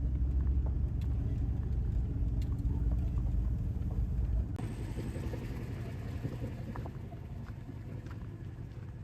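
A vehicle's low rumble, which drops away sharply about four and a half seconds in, leaving a fainter hiss that slowly fades.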